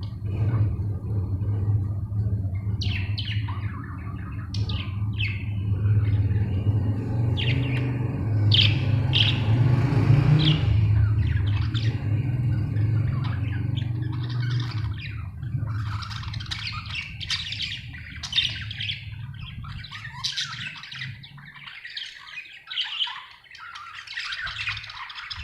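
Parrots chattering and squawking, scattered calls at first and a dense, continuous flock chatter in the second half. A steady low hum sits under the first two-thirds and fades out.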